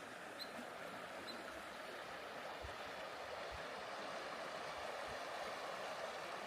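The Hoh River running past, a steady rushing and bubbling of water, with a few faint low thumps about midway through.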